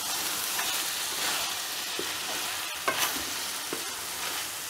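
Chicken mince and boiled chana dal sizzling in a pot while being stirred with a wooden spatula, with a steady frying hiss and a few scrapes and knocks of the spatula against the pot about two to three seconds in.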